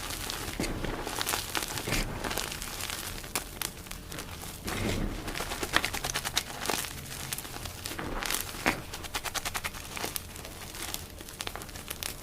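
Blocks of dyed gym chalk being crushed: a dense, crisp crackling and crunching made of many fine snaps, with a sudden change in texture about four and a half seconds in.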